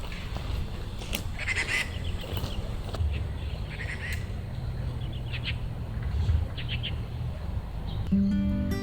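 Bird calls, four short clusters of rapid calls, over a steady low rumble; music begins near the end.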